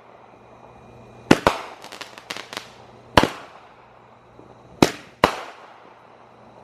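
Aerial fireworks bursting: five loud, sharp bangs at irregular intervals, each trailing off in an echo, with a few smaller cracks between them about two seconds in.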